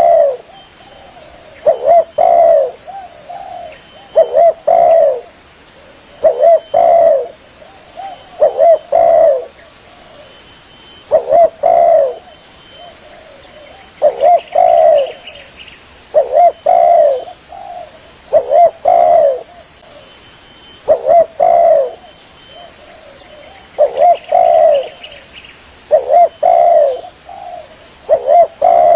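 Spotted dove (tekukur) cooing: the same short phrase of a few low cooing notes, repeated steadily about every two seconds.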